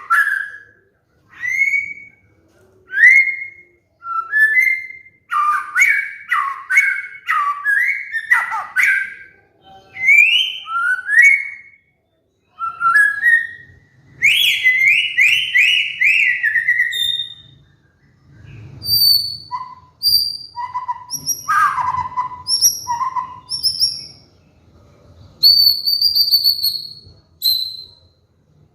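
White-rumped shama (murai batu) singing a varied string of loud whistled phrases with rising and falling notes. A quick run of repeated notes comes in the middle, and higher, thinner notes follow in the second half.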